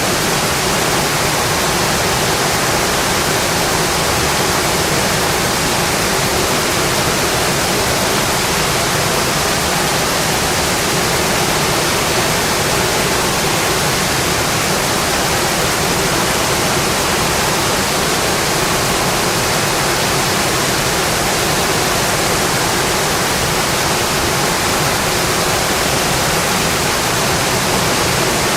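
Steady heavy rain on a metal roof, a dense even hiss that does not let up.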